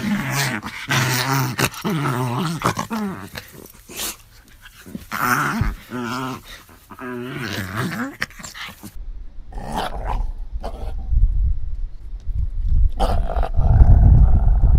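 Dogs growling and snarling in short spells, the pitch wavering. About nine seconds in, a deeper, muffled, low rumbling growl takes over, loudest near the end.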